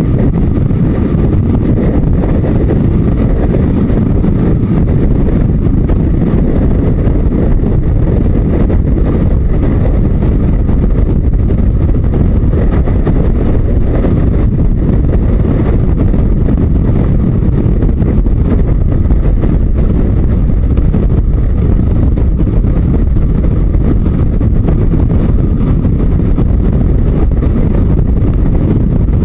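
Yamaha Diversion 900's air-cooled inline-four running steadily while the motorcycle is ridden at speed, with a loud, even rush of wind on the microphone.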